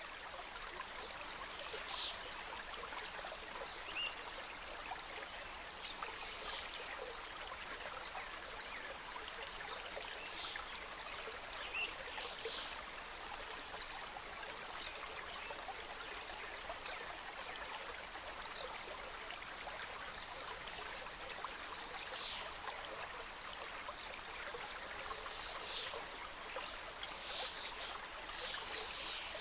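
Mountain stream cascading over rocks: a steady rush of running water, with short bright accents every few seconds.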